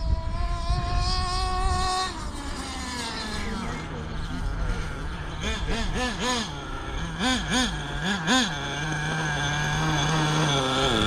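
A 1/8-scale HSP monster truck's CXP .26 two-stroke nitro engine buzzing. It revs up with a steadily rising pitch for about two seconds, then drops off. Around the middle comes a string of quick throttle blips, and then it settles into a steady idle.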